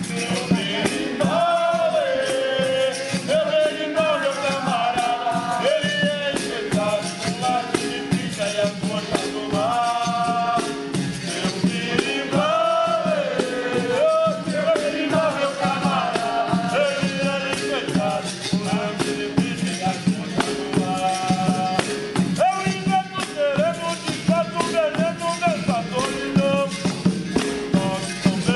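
Capoeira roda music: voices singing over percussion with a steady, driving beat and the jingling of a pandeiro, in the manner of berimbau-led capoeira songs.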